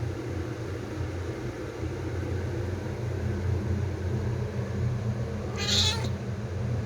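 A kitten gives one short, high-pitched meow about five and a half seconds in, over a steady low hum.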